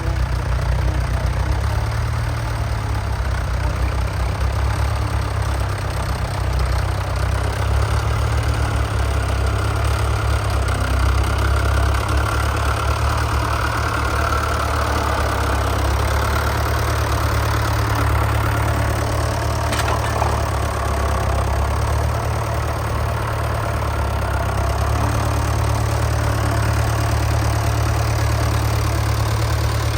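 Heavy diesel engine running steadily with a low, even rumble, and a single sharp click about two-thirds of the way through.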